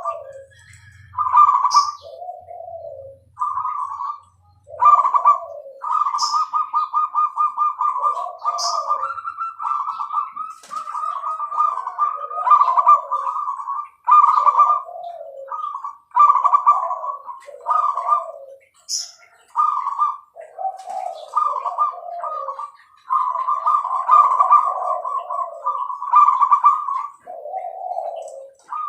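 Zebra dove (perkutut, Bangkok song strain) cooing in repeated phrases: a rolling, trilled coo answered by a lower note, over and over. A few short high chirps from another small bird come in now and then.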